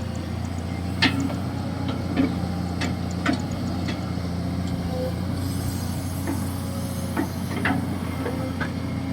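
Kobelco SK200-6 Super hydraulic excavator's diesel engine running steadily while digging, with sharp metallic knocks at irregular moments from the bucket and arm. The loudest knock comes about a second in.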